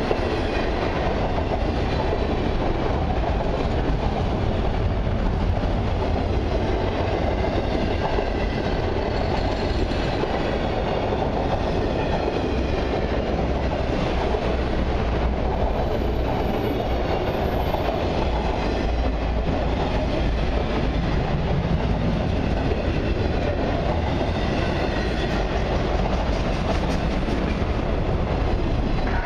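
Autorack freight cars of a long freight train rolling past close by: a steady rumble of steel wheels on the rails.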